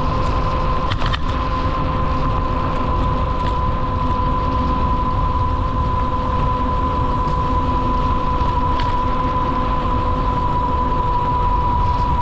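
Steady rumble of wind and rolling noise from a bicycle being ridden, with a constant high-pitched whine over it. There are a couple of brief light rattles, about a second in and again near the end.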